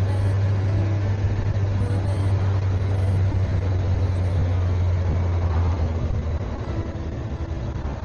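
Motorcycle engine running steadily under way, with road and wind noise; the engine note eases off a little about six seconds in.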